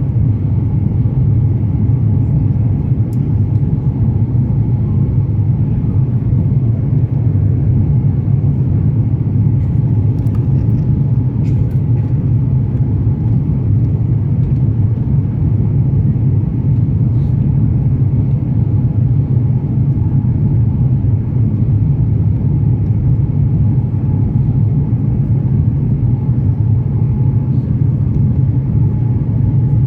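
Cabin noise inside an Airbus A350-900 airliner: its Rolls-Royce Trent XWB engines a loud, steady low rumble that holds an even pitch throughout, with a faint steady hum above it.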